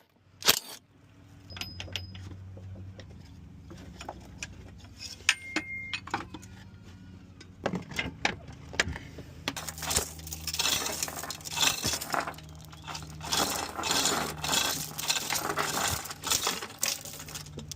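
Metal hand tools and bolts clinking and rattling as the engine and transmission mount bolts are taken off, with scattered clinks at first and a busy run of rapid clicking and rattling in the second half.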